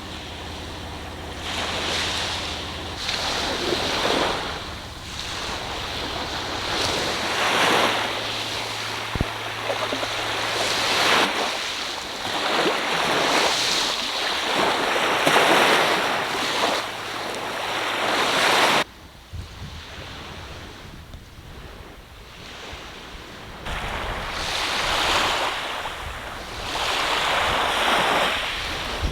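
Ocean surf breaking on a shore in repeated surges, with wind buffeting the microphone. The sound drops suddenly about two-thirds of the way through, then the swells return.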